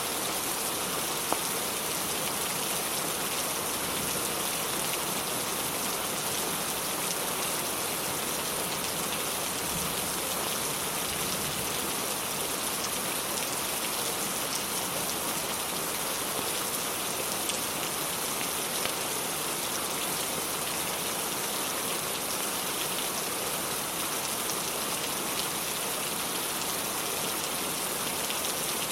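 Steady rain falling, an even hiss, with a few sharp crackles from a wood fire; the loudest is a single pop about a second in.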